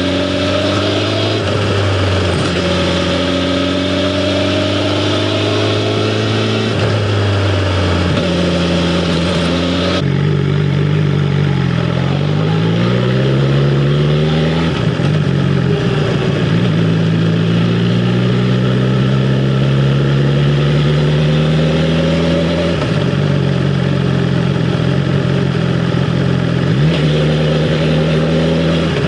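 BMW S1000R's inline-four engine running under way. Its pitch climbs and drops back several times as the bike accelerates, shifts gear and slows.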